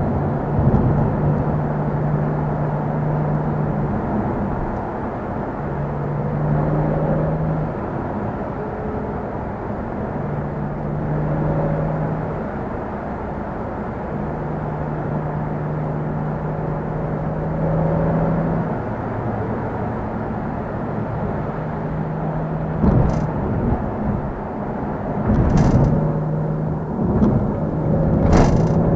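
Car engine and road noise while driving: a steady drone with a low engine tone that fades in and out as the throttle changes. Near the end come a few short, loud bursts of noise.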